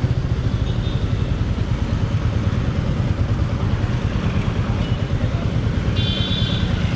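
Royal Enfield Meteor 350's single-cylinder engine running steadily under way, a low, fast-pulsing exhaust beat. A brief high-pitched tone sounds about six seconds in.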